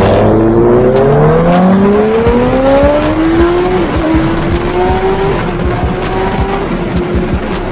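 Sportbike engine under hard acceleration, its pitch rising steadily for about four seconds, with a brief dip near the middle as it shifts, then holding high and nearly steady. Heavy wind rush runs underneath.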